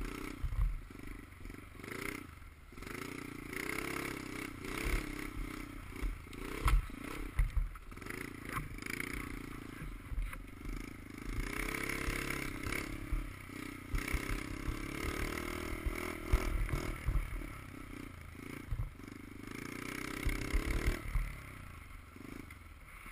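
Dirt bike engine being ridden, its pitch rising and falling again and again as the throttle opens and closes, heard through a GoPro camera with wind buffeting and rattling knocks on the microphone.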